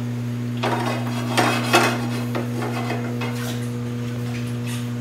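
Metal cooking utensils clattering and scraping against a pan, with a cluster of knocks about a second in and a few more near the end, over a steady low hum.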